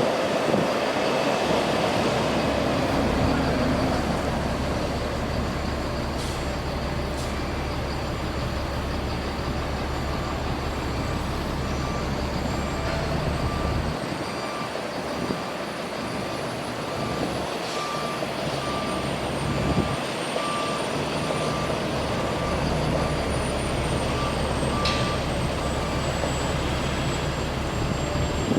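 Freightliner Coronado water truck's diesel engine running steadily, its low hum briefly dropping away midway. A reversing alarm beeps evenly through much of the middle.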